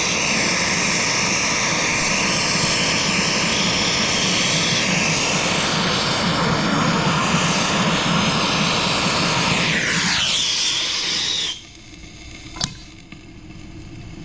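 A loud motor-driven machine running steadily as a hissing whine, its pitch sliding down shortly before it cuts off about eleven seconds in. A single sharp click follows.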